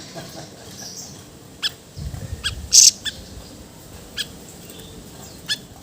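A siri-siri bird giving short, sharp, high-pitched chirps, about six of them spaced unevenly, the loudest a little under three seconds in.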